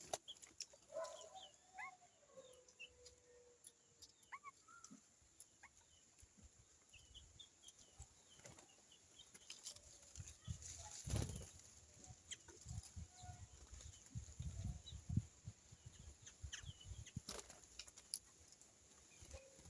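Birds at a feeding tray: faint scattered chirps with wing flutters and light knocks, busiest in the second half.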